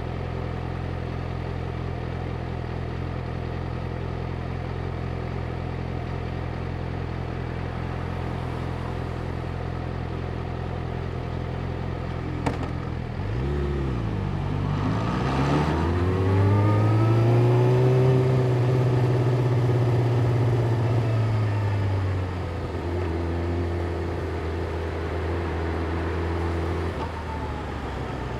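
Yamaha YZF-R6 inline-four idling steadily in stop-start traffic. A click comes about twelve seconds in, then a quick blip of the throttle, and the engine pulls away with a rise in pitch that holds for several seconds before dropping back to a steady low run.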